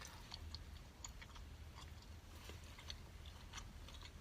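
Faint chewing with soft, scattered mouth clicks.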